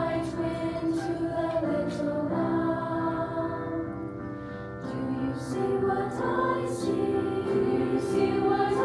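Choir singing in harmony, holding sustained chords that change every second or two.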